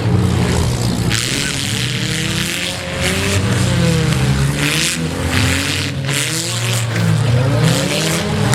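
Several demolition derby cars' engines revving at once, their pitch rising and falling over and over over a steady low rumble, with a noisy hiss throughout.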